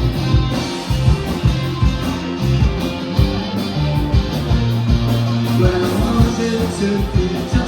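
A live rock band playing, with strummed guitars over a steady drum beat.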